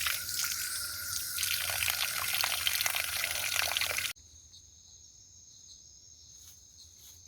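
Water running and splashing at a standpipe for about four seconds, stopping abruptly. Then a quiet night insect chorus of steady high-pitched cricket trills.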